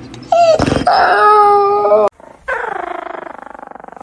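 A dog howling twice: a loud drawn-out howl of nearly two seconds, then a second howl that falls in pitch and trails off.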